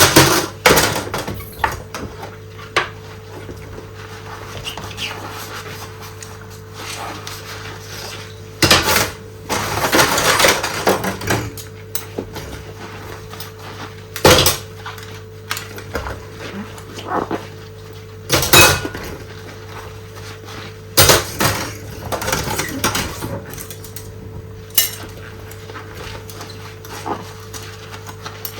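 Dishes and cutlery clattering and clinking at irregular intervals as they are washed by hand in rubber gloves, with a denser spell of handling about ten seconds in, over a steady low hum.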